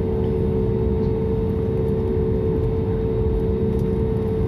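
Steady cabin noise of an airliner on the ground: a low rumble under a constant hum.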